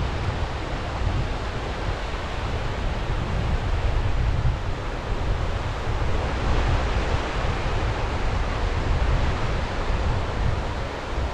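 Sea waves washing ashore in a steady rush, swelling slightly about halfway through, with wind buffeting the microphone in low rumbles.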